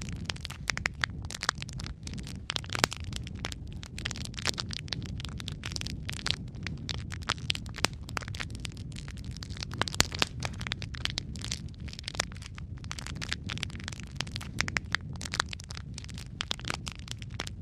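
Wood fire burning in a fireplace: dense, irregular crackling and popping of burning logs over a steady low rumble of flames, with a few louder pops.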